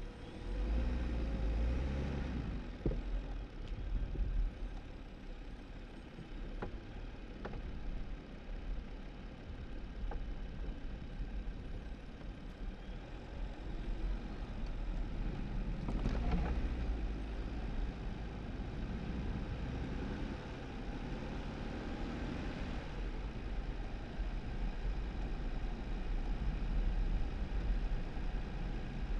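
2018 Jeep Wrangler driving on a snowy dirt road: a steady low engine and road rumble, with tyre noise swelling a couple of times.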